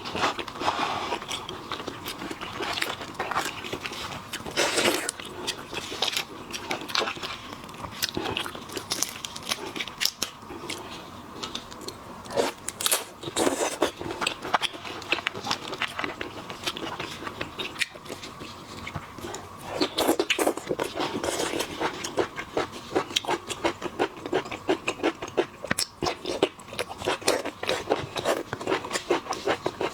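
Close-up eating sounds of seafood: a steady run of crunching, crackling and chewing, with some scraping.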